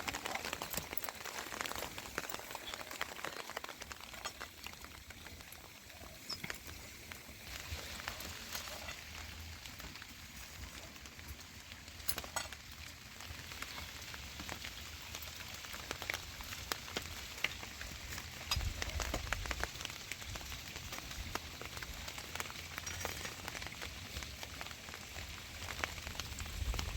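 Rain falling steadily, an even hiss dotted with scattered drip ticks, with a low rumble coming and going at times.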